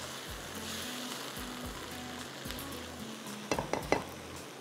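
Carrots and French beans sizzling as they are stir-fried in a nonstick wok, stirred with a spatula that knocks against the pan a few times near the end.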